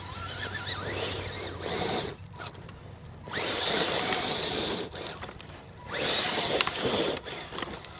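An RC scale crawler truck's electric motor and gears whining in three bursts of throttle, the pitch rising and falling with each burst, with a quieter pause between them.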